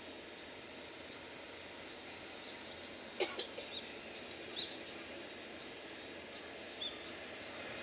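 Steady faint outdoor background hiss with a few short bird chirps. The loudest is a sharp call about three seconds in, followed by a handful of quick chirps and one more near the end.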